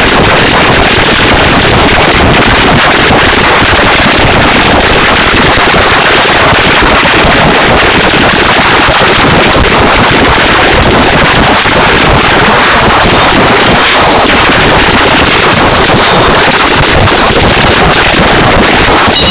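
Harsh noise music: a dense wall of distorted, rapidly crackling static, held at a constant, very loud level with no breaks.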